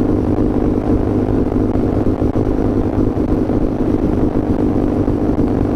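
Motorcycle engine running steadily at a constant cruising speed, a continuous drone with no change in pitch.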